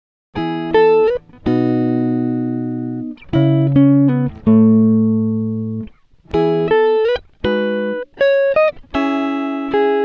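Background music on a plucked guitar: single notes and chords picked one after another, each left to ring and fade. It comes in just after a brief silence at the start.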